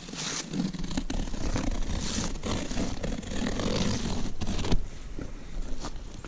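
Cardboard shipping box being cut and torn open with a blade: a scraping, ripping noise with small clicks, ending in a sharp crack near the end.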